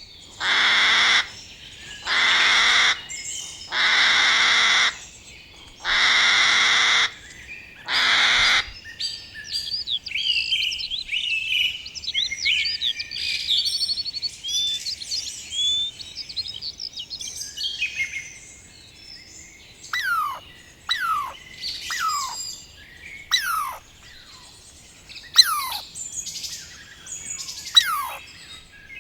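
Birds calling: first five loud, harsh calls of about a second each, then a stretch of quick twittering chirps, then a series of sharp whistles that each sweep steeply down in pitch.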